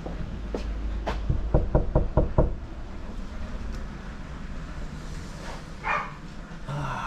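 A quick run of about six knocks, around two seconds in, over a steady low rumble, with a short scraping burst near the end.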